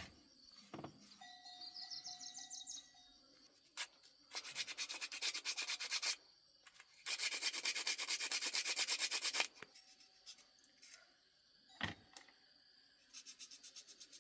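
Quick back-and-forth abrasive rubbing strokes, like hand scrubbing or sanding on a car part. They come in two runs of about two seconds each, with a shorter run near the end and a few sharp knocks in between.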